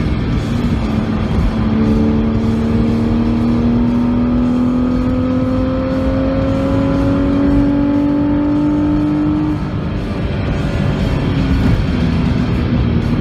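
BMW Z4 3.0i's straight-six engine pulling steadily up through the revs in one gear for about eight seconds, heard from inside the car over heavy wind and road noise. Near ten seconds it eases off briefly, then pulls again.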